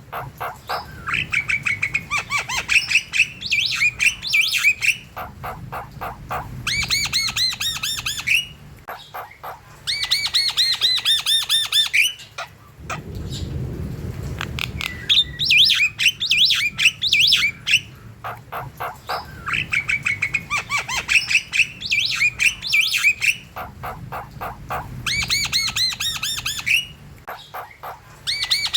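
Javan myna (jalak kebo) singing vigorously: loud chattering phrases of rapid, repeated squawky notes, coming in bursts of a few seconds with short pauses between them.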